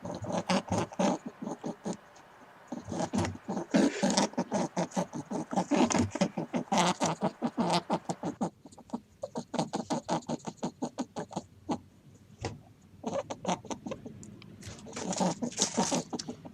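Rapid runs of short squeaks and clicks from a small animal, coming in dense bursts with a sparser stretch after about eight seconds.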